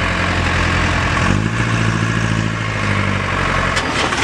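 Willys military truck's four-cylinder diesel engine idling, its speed stepping up slightly about a second in and settling back near the end.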